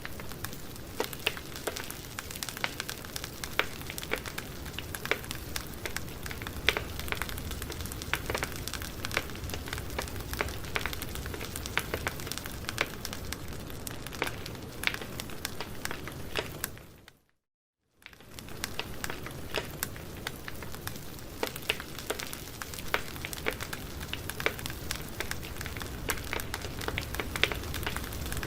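Campfire burning: wood crackling with frequent sharp pops over a steady hiss. About 17 seconds in, the sound fades out to silence for about a second, then comes back.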